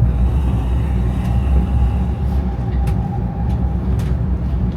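Shinkansen bullet train running: a steady low rumble with a faint held tone for the first few seconds and a few light clicks.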